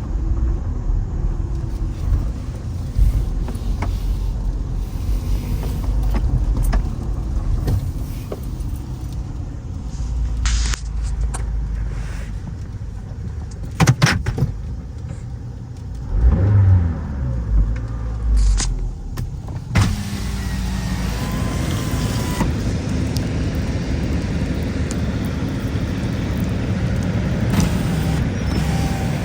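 Car driving, heard from inside the cabin: a steady low rumble of engine and road, with a few sharp clicks. Past the middle a pitch falls briefly, and about two-thirds of the way in the sound turns to a brighter, even hiss.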